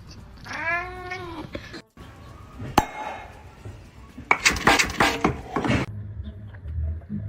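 A cat meows once, a call that rises and then falls in pitch. After a cut comes a single sharp click, then about a second and a half of loud, rapid clatter, the loudest part.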